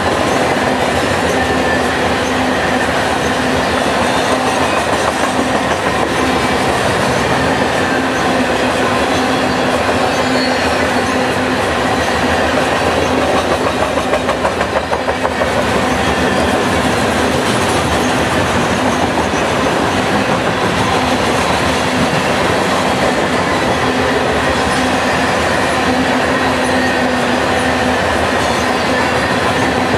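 Loaded grain train's covered hopper cars rolling past at speed: a loud, steady rumble and clatter of steel wheels on the rails, with steady tones running through it and a brief flutter in loudness about halfway through.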